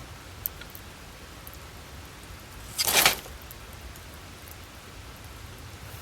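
Wood campfire burning with a steady low rumble and faint crackles, a sharp crack about half a second in and a loud brief burst of crackling near the middle.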